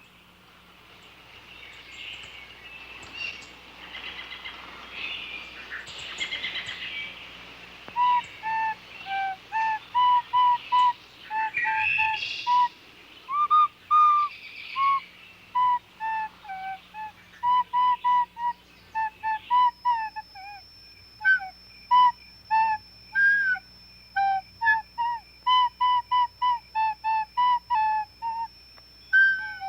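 Breathy, wind-like hiss swelling over the first seconds, then a long run of short, high, bird-like whistled notes in a quick, uneven rhythm. A thin steady high tone joins about twenty seconds in.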